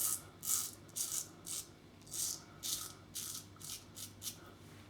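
Double-edge safety razor (Global Shave Club Rain with a Gillette Silver Blue blade) scraping through lathered stubble in about ten short, quick strokes, roughly two a second.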